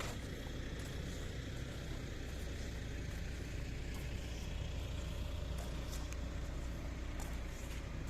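A steady low engine rumble, like a motor idling, with a few faint ticks.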